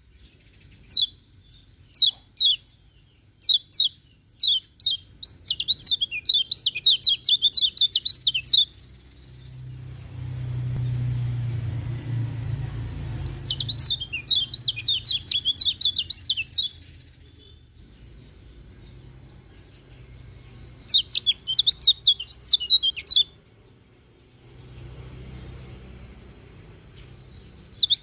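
Kecial kuning white-eye song: a few separate high chirps, then fast twittering phrases repeated several times. A low rumble is heard briefly in the middle.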